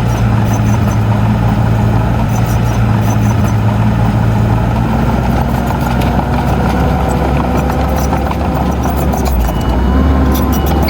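Heavy diesel engine of earthmoving machinery running steadily, with light metallic clicks over it. Its note shifts near the end.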